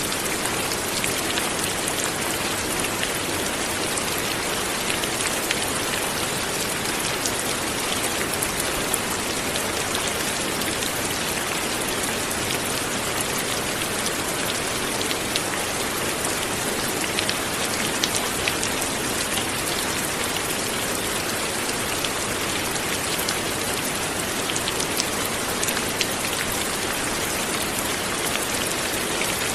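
Steady light rain falling, a constant patter with many small distinct drops ticking on a surface.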